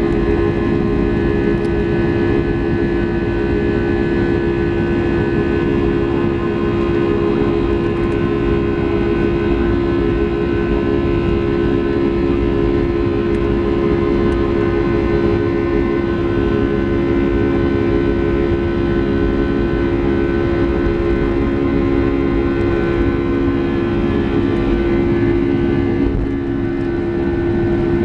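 Boeing 757-300's jet engines running steadily, heard from inside the cabin: a constant low hum and rumble with a steady whine on top.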